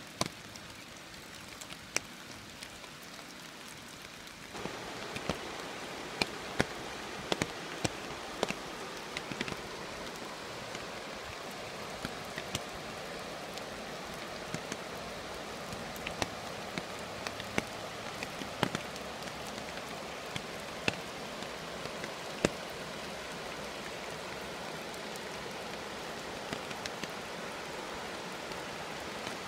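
Steady rain hiss with frequent irregular sharp drop taps. The hiss gets distinctly louder about four and a half seconds in.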